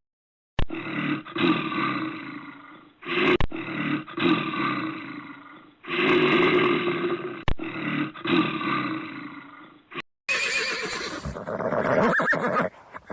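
A bear roaring in three similar bouts of about three seconds each. About ten seconds in, a horse neighs.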